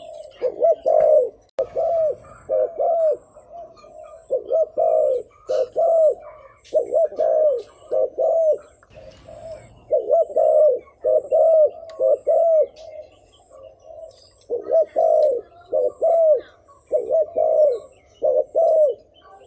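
Spotted dove giving a rapid cooing series, short coos about two a second in runs with brief pauses between them: the fast 'gù' cooing that dove keepers use as a decoy call to rouse wild males.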